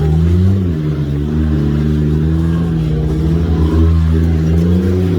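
Can-Am Maverick X3 side-by-side's engine running at low revs, its pitch rising and falling gently with the throttle, once about half a second in and again near the end.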